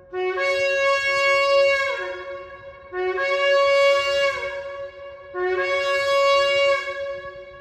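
Shofar blown in three long blasts of about two seconds each. Each starts on a lower note, jumps up and holds a higher note, then slides down at its end.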